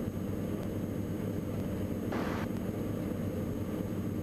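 Diamond DA42 NG's Austro AE300 diesel engines and propellers droning steadily, heard inside the cockpit. A brief hiss comes in about two seconds in.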